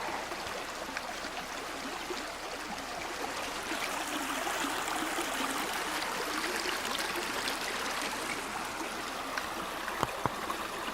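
Steady rushing and trickling of a shallow river flowing over stones, with a couple of faint clicks near the end.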